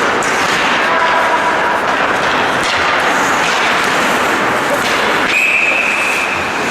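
Steady rink noise of an ice hockey game in play with a few sharp knocks, then a referee's whistle blown once for about a second near the end.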